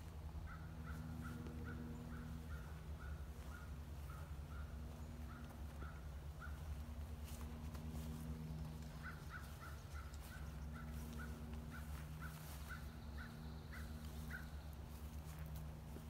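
A bird calling in two long runs of short, evenly spaced notes, about three a second, with a pause of a couple of seconds between the runs. A steady low hum runs underneath.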